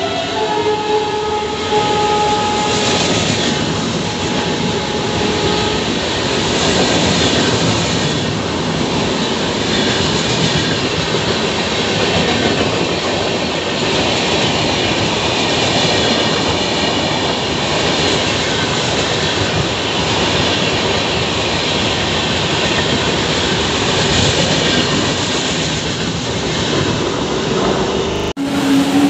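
Passenger train hauled by a WAP-7 electric locomotive passing along the platform. A steady hum comes from the locomotive for the first few seconds, then the coaches roll by with continuous clickety-clack of wheels over the rail joints.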